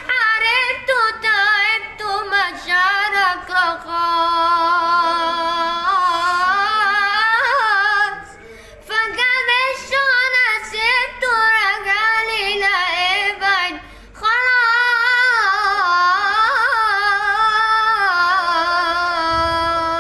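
A child singing Arabic-style melismatic phrases, long held notes that waver and glide in pitch, with short breaths about eight and fourteen seconds in.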